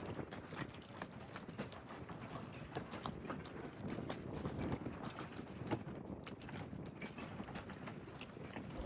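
Footsteps tapping on hard paving, irregular clicks several times a second, over a steady outdoor street hum.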